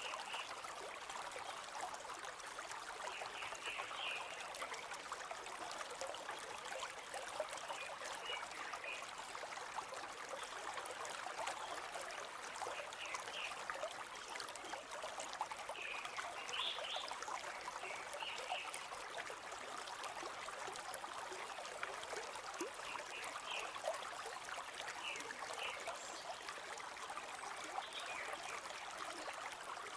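River water flowing steadily over stones, an unbroken babbling rush. Short bird chirps break in every few seconds.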